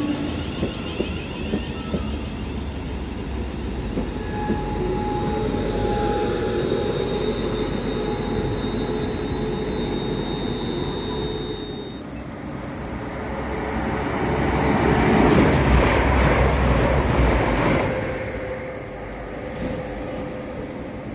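Class 360 Desiro electric multiple unit pulling away, with a steady electric whine from its traction equipment over the running rumble. After a cut about twelve seconds in, a train passes at speed, swelling to a loud rush of wheels on rails and then fading.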